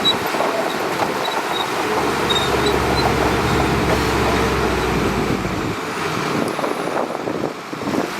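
Shantui DH17C2 bulldozer's diesel engine running steadily under work, easing briefly near the end.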